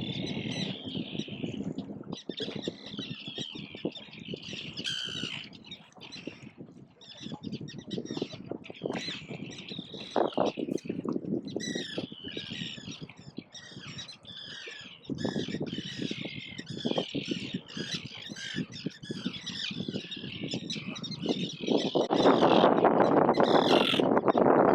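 Gulls calling, many harsh squawks overlapping and repeating, typical of agitated parent gulls defending their chicks. A louder steady rushing noise comes in near the end.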